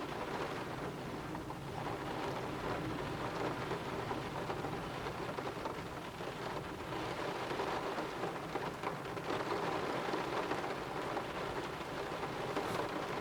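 Heavy rain pouring steadily in a thunderstorm, a dense even patter.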